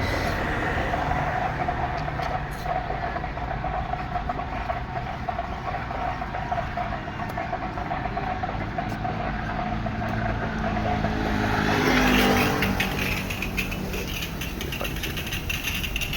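Road traffic: a motor vehicle passes, swelling to its loudest about twelve seconds in, over a steady low rumble and a steady mid-pitched hum.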